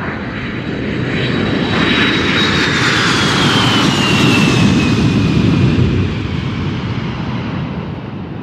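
Airplane flying over: a steady rushing that swells to a peak about four to five seconds in and then eases off, with a high whine that slowly falls in pitch.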